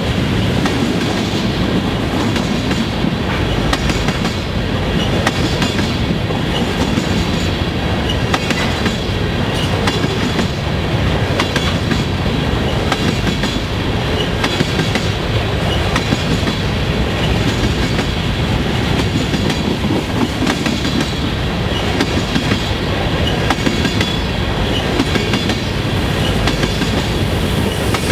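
Freight train of covered hopper cars rolling past at speed: a steady rumble of steel wheels on rail with a continuous clickety-clack of wheels passing over rail joints.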